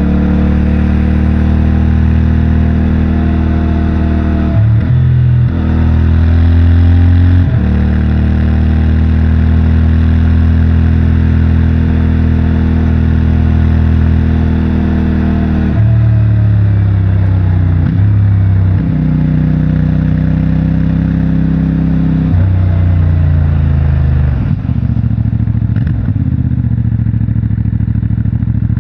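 CFMOTO 450MT's 449 cc parallel-twin engine with its stock exhaust, pulling along the road with wind rushing past. Its pitch holds steady for stretches and then steps down and back up several times, as when gears are changed or the throttle is eased and reopened.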